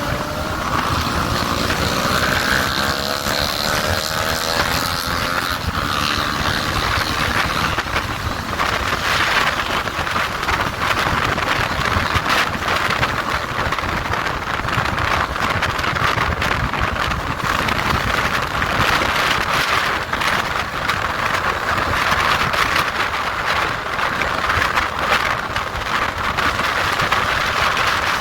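Motorcycle riding at speed with a steady rush of wind over the microphone. In the first few seconds an engine note climbs in pitch as it accelerates.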